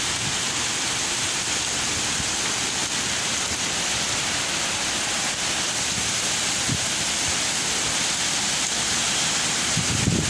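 Heavy rain pouring down in a steady hiss, with gusts of wind buffeting the microphone near the end.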